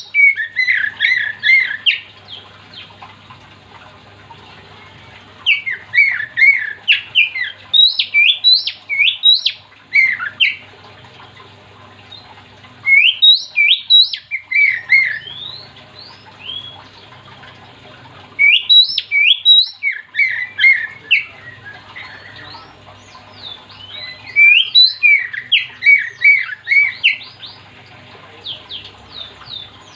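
Oriental magpie-robin (kacer) singing loud bouts of rapid, sliding whistled notes. Each bout lasts a few seconds, with pauses of several seconds between them, about five bouts in all.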